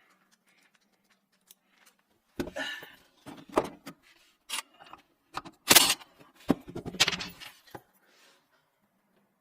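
Clattering metal knocks and scrapes from hand tools and fittings while a garbage disposer is worked loose under a kitchen sink. The clatter starts about two seconds in as a run of sharp hits, the loudest a little past the middle, and stops shortly before the end.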